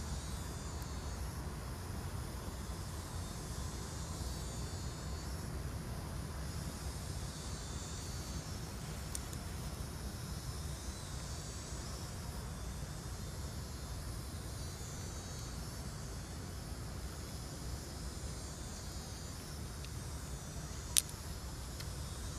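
Steady low hum under a faint high hiss, with a single sharp click near the end.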